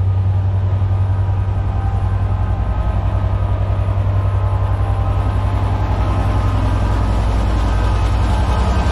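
Class 67 diesel locomotive's EMD V12 two-stroke engine idling steadily at the platform: a loud, low, even hum that fills the station.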